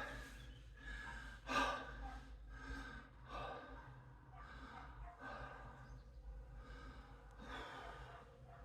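A man breathing hard with faint repeated breaths, about one a second, out of breath from a weight workout.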